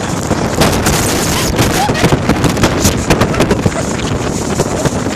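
Dust-storm wind blowing hard across the microphone: a steady loud rush with rapid, uneven buffeting crackles.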